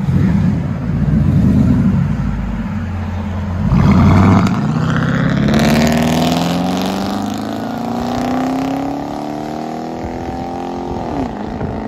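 2013 Ram 1500's 5.7-litre Hemi V8 on a straight-piped true-dual exhaust, accelerating. A revving burst comes about four seconds in. The engine then rises steadily in pitch for several seconds, and the pitch drops sharply near the end.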